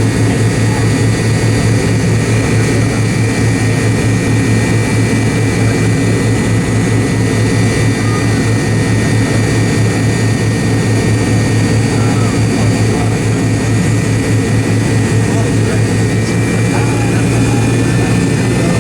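Cabin noise inside an MD-88 airliner: the rear-mounted turbofan engines run at a steady setting, a constant low drone with a thin high whine over a hiss of air and airframe noise.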